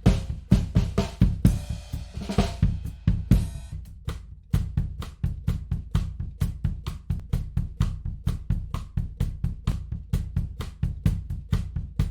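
Recorded drum kit playing a groove of kick, snare and cymbals, run through a tape-emulation plugin. Cymbal crashes ring over the beat at first; after a short break about four seconds in, a steady, quick pattern of hits carries on.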